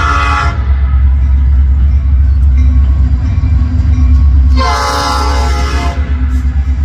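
Nathan P5 five-chime air horn on a CN SD75I diesel locomotive sounding: one blast ends about half a second in, and a second blast of about a second and a half comes near the end. A heavy low rumble from the passing train runs beneath.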